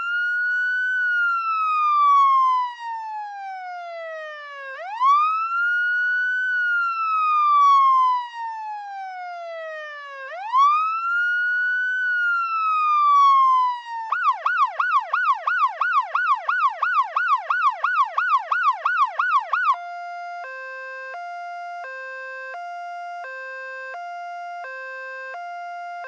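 Electronic ambulance siren cycling through its modes. First come three slow wails, each rising quickly and then falling away over about five seconds. Then comes a fast yelp warbling about three times a second, and last a two-tone hi-lo stepping back and forth between two notes, each held under a second.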